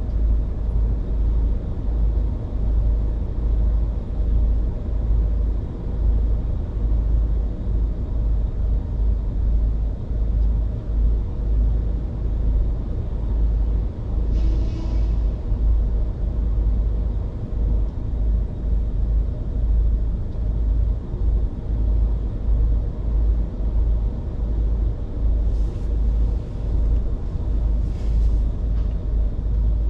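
Car driving on city streets: a steady, deep rumble of road and running noise. A brief hiss comes about halfway through, and a few short hissy sounds come near the end.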